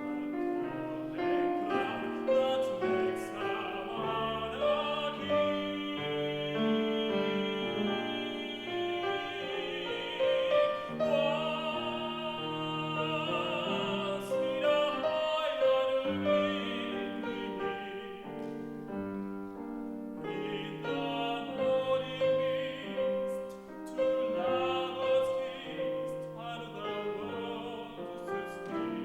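A tenor singing in operatic style with piano accompaniment, the voice carrying a wide vibrato on held notes.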